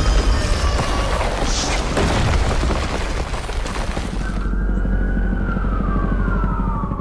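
Deep, loud rumbling and crashing noise of collapse or earthquake, then, about two-thirds of the way in, a single siren-like tone slowly falling in pitch over the continuing low rumble.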